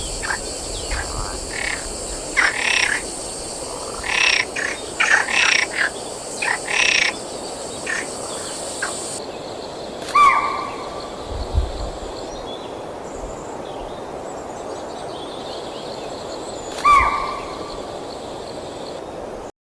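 Animal calls: a quick run of short calls over a steady high hiss, then, after an abrupt change about nine seconds in, two single calls several seconds apart that each fall in pitch. The sound cuts off just before the end.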